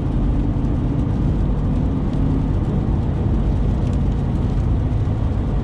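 Steady road and engine noise from inside a vehicle's cabin at highway speed, a continuous low rumble.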